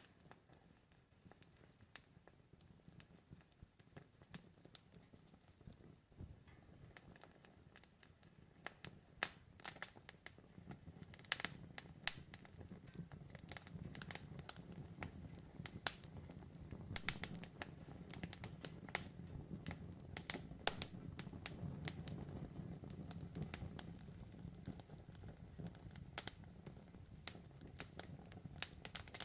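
Wood fire crackling, with irregular sharp pops and snaps over a low steady rush of burning that grows slightly louder partway through.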